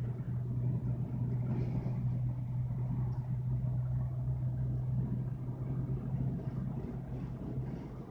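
Steady low hum like a running vehicle engine, starting just before and easing off near the end, over a low rumble of wind on the microphone.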